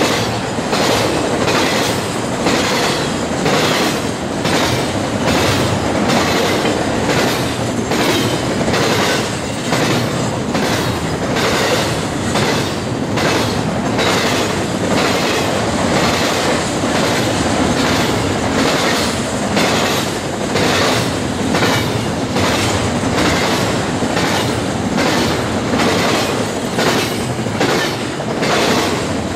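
Double-stack container train's well cars rolling past close by: a steady rumble and rattle with wheel clicks in an even rhythm, a little over one a second.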